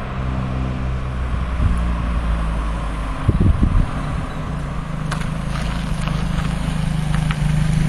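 Datsun cars' engines running as the cars climb toward and pass close by, one after another. The steady engine drone grows louder near the end as a car comes alongside.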